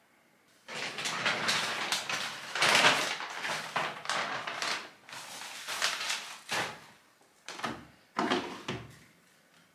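A string of irregular scraping and sliding handling noises, as of things being moved about in a room, starting under a second in and going on in uneven spells.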